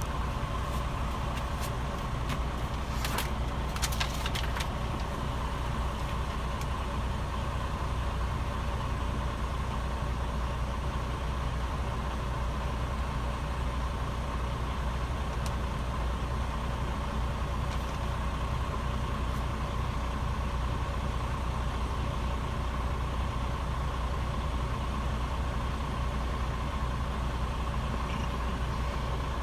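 Semi-truck diesel engine idling steadily, with a thin steady whine over it. A few sharp clicks come about three to four seconds in.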